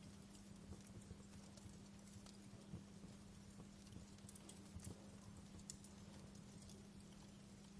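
Faint crackling of a wood fire in a fireplace: sparse soft pops and ticks over a steady low hum.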